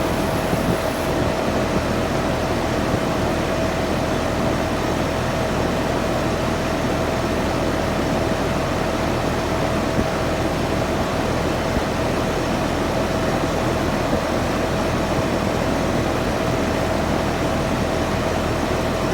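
Early 10-ton Nordyne air conditioner running steadily: a constant rushing hum with a steady whine held over it.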